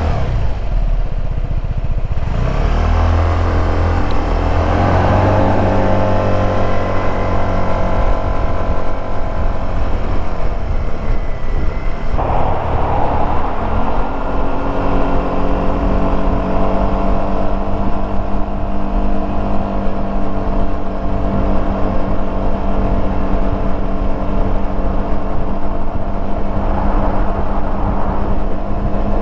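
Suzuki Burgman 200 scooter's single-cylinder four-stroke engine and exhaust under way. It rises in pitch a few seconds in as the scooter accelerates, then holds a steady note for the second half.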